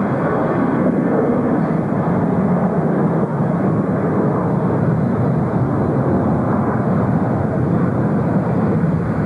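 Jet airliner engines running, a loud steady noise that holds level throughout.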